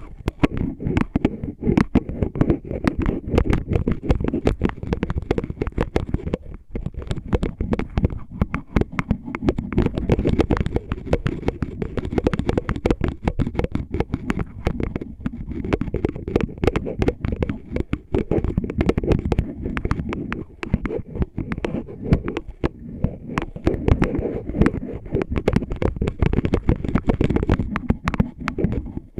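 Close-miked ASMR scratching and tapping on an oil bottle: a rapid, dense stream of small clicks and rubbing, heavy in the low end.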